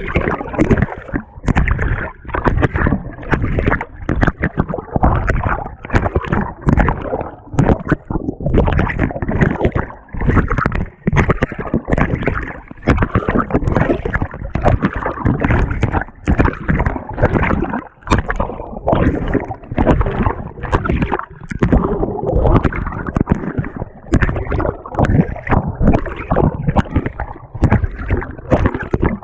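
Water and laundry churning and sloshing inside a GE top-loading washing machine as its agitator works, heard from on the agitator itself. The level surges and dips irregularly several times a second.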